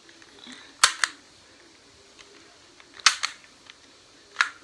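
Sharp mechanical clicks from a CO2 airsoft pistol being handled: a quick pair about a second in, another pair about three seconds in, and a single click near the end.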